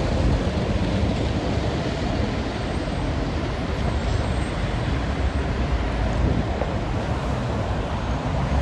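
Steady low rumble and road noise of a vehicle on the move, without any change in level.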